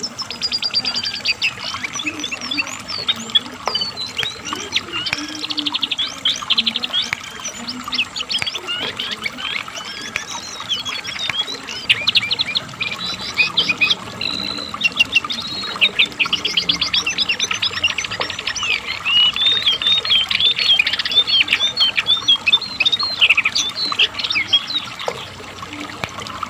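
Lesser shortwing (cingcoang coklat) singing without pause: long runs of rapid, high, varied chattering notes and quick trills. This is the heavy, nonstop song that bird keepers call 'gacor'.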